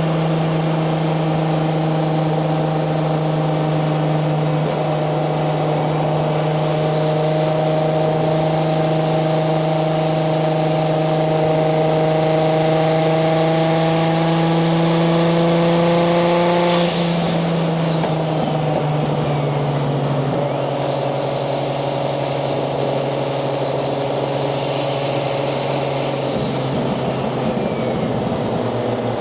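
Single-turbo 1JZ VVTi inline-six in a Nissan 240SX cruising on light throttle, its pitch creeping up as it gathers speed, with a high turbo whine that climbs steadily and then cuts off suddenly a little past halfway. The engine settles lower and a second, shorter turbo whine rises and fades near the end.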